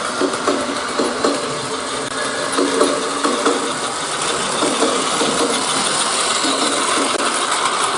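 Battery-powered Plarail toy train running on plastic track: a steady small-motor whir with gear noise and a constant rattle of light clicks from the wheels and track.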